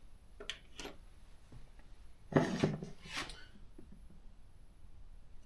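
Light clicks, then a sharp clatter of hard parts or tools being handled and set down on a workbench about two and a half seconds in, with a second, smaller clatter a moment later.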